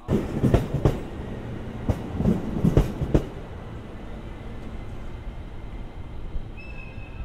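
Train wheels knocking over rail joints as a train rolls past: a run of sharp clacks in the first three seconds or so, then a steady rumble.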